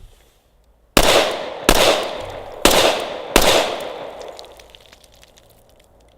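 Four shots from a Glock 21 Gen 4 .45 ACP pistol, fired as two pairs, two on one target and two on the next, each shot ringing out with a long fading echo.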